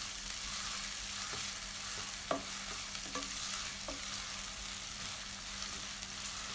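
Chicken mince and chopped onion frying in oil in a non-stick kadhai with a steady sizzle as the mince's water cooks off, while a spatula stirs and breaks it up, giving a few light scrapes and taps on the pan, the loudest about two seconds in.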